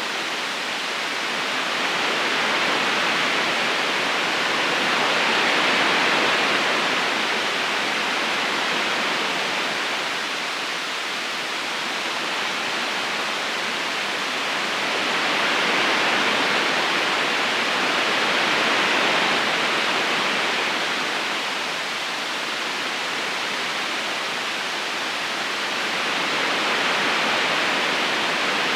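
Steady rushing of flowing river water, a continuous hiss that swells and eases slowly every several seconds.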